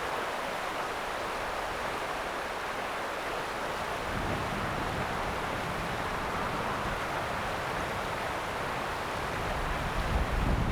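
River water rushing steadily. From about four seconds in, a low wind rumble on the microphone joins it and gusts near the end.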